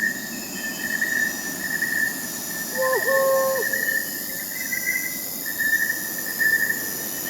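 Crickets chirping in steady pulses with a fainter high insect trill behind them, and one short hoot of an owl about three seconds in, under a second long, rising at its start and falling away at its end.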